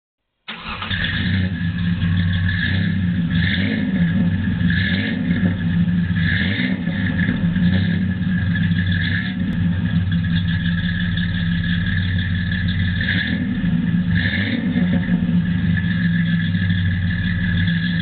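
2003 Ford Ranger's 3.0 L V6 running steadily through a Flowmaster cat-back exhaust, a deep, even exhaust rumble. It comes in suddenly about half a second in.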